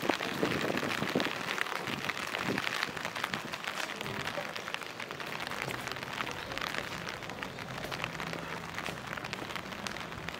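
Steady rain falling, with a dense patter of many small raindrop ticks.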